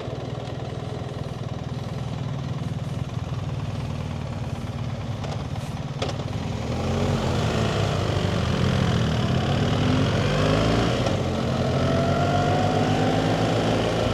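BMW GS adventure motorcycle's boxer-twin engine running at a steady low idle, then pulling away about halfway through, the engine note rising as it accelerates, with a brief dip at a gear change.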